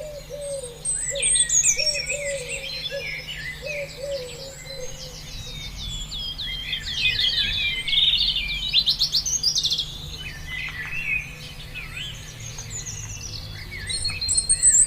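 Several birds singing and calling at once, with overlapping chirps and rapid trills. A lower, repeated short call sounds underneath for the first few seconds.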